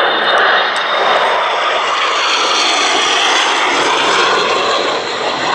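Jet aircraft flying by, its engines giving a loud, steady rushing noise that eases slightly near the end.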